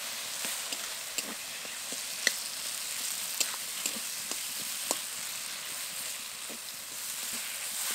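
A stuffing mixture of mashed potato, paneer and ground pointed-gourd seeds sizzling in mustard oil in a kadai as it is stirred, with a steady hiss. A spatula scrapes and knocks against the pan every so often.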